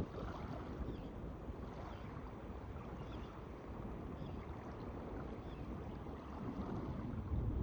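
Steady outdoor rush of wind, with low rumbling gusts on the microphone that grow louder near the end.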